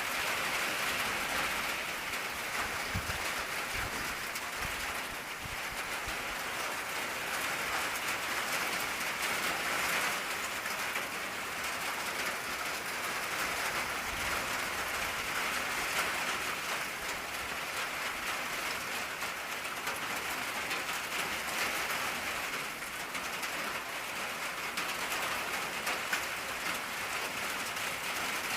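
Steady rain drumming on an old tin roof: a dense, even patter of drops on sheet metal.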